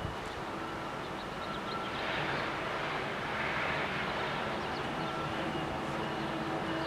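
A train's steady rumble with a faint hum, growing a little louder about two seconds in.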